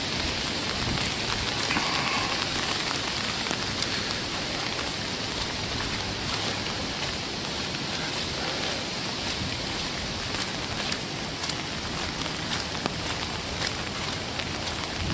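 Steady rain falling, with many small, sharp raindrop taps scattered through it.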